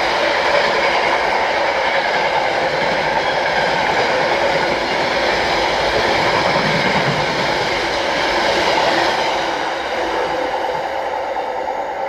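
Freight train of box wagons passing close at speed: a steady noise of wheels on the rails, easing a little near the end as the last wagons go by.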